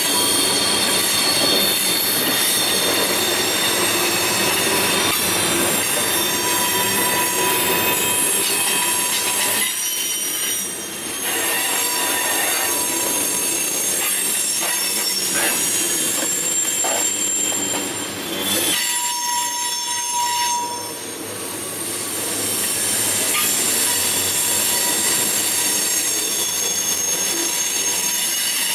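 Railroad cars rolling past with their steel wheels squealing against the rails: several shrill tones held over a steady rolling rumble, which eases briefly twice.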